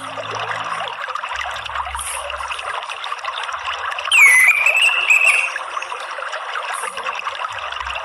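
Water trickling steadily, with one orange-headed thrush call about four seconds in: a quick downward sweep into a held whistle lasting just over a second.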